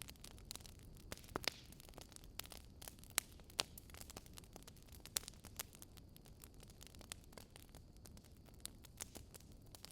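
Wood fire crackling: irregular sharp pops and snaps, a few louder ones, over a steady low rumbling hiss.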